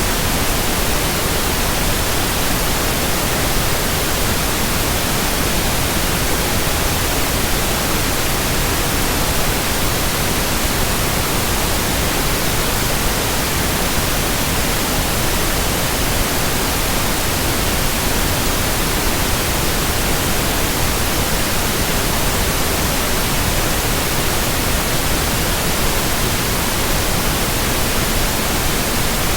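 Steady white-noise hiss, spread evenly from low to high pitches, with no hum, rhythm or change at all.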